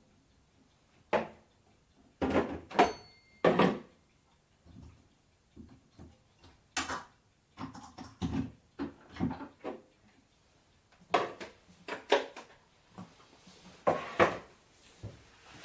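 Kitchen work sounds: irregular knocks and clatters of dishes, utensils and cabinet doors being handled, about a dozen in all, loudest about two to four seconds in and again near the end. One brief ring of struck crockery about three seconds in.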